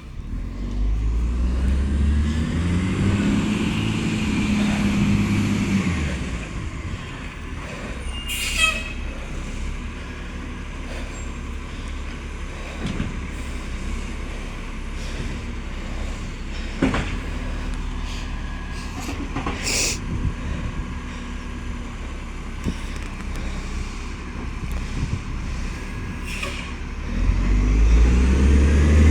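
Diesel garbage truck engine revving up and settling over the first few seconds, then running steadily, with two short hisses of air about a third and two-thirds of the way through. It revs again near the end. The truck is one with an exhaust leak.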